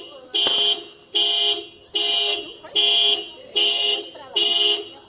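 A car alarm honking a horn over and over: seven evenly spaced beeps of one steady pitch, each about half a second long, a little more than one a second.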